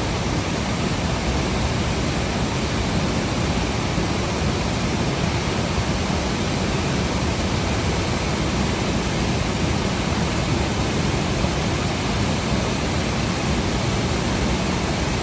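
A waterfall's steady rushing, an even roar of falling water with no breaks or changes.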